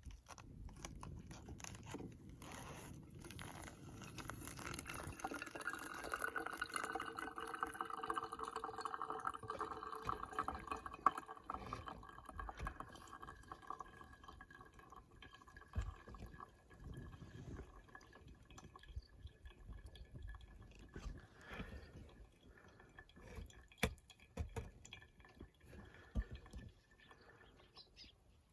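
Water poured in a stream while making coffee, with a ringing tone through the first half of the pour, then scattered drips and small knocks.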